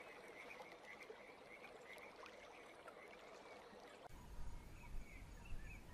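Faint frog calls, a run of short chirps over a soft hiss. About four seconds in, the background changes to a low rumble.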